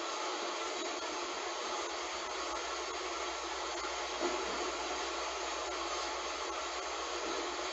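Heavy rain falling, a steady hiss with one brief louder patter about four seconds in.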